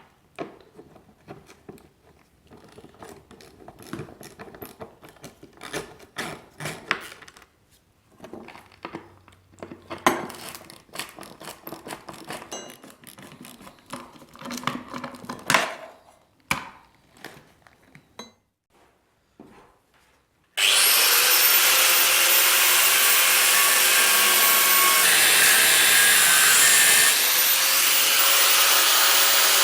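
Hand tools clicking and scraping irregularly while rusty fixings are worked loose from an old fibreglass seat unit. About twenty seconds in, a power grinder starts suddenly and runs steadily, grinding off a seized fixing, its pitch shifting slightly as it bears on the metal.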